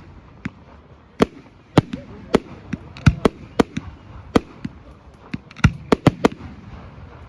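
Fireworks display: an irregular string of sharp bangs, roughly two a second, some coming in quick clusters, over a steady background murmur.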